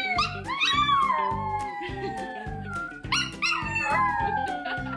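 A dog howling: two long calls, each falling slowly in pitch, the second starting about three seconds in, over background music with a steady beat.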